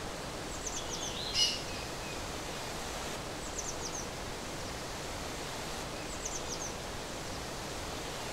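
Steady outdoor ambience, an even rushing hiss, with a bird giving a quick run of three or four high chirps three times, roughly every three seconds. A single louder bird call comes about a second and a half in.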